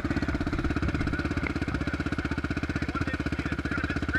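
Dirt bike engine idling steadily, an even, fast pulse.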